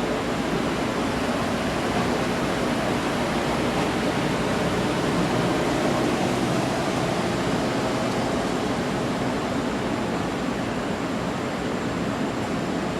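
A train moving through the station with a steady rolling rumble and no distinct clicks or squeals.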